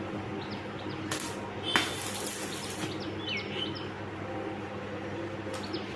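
Small birds chirping in short, repeated calls over a steady low hum. A burst of hiss comes about a second in, and a longer one with a sharp knock just before two seconds in.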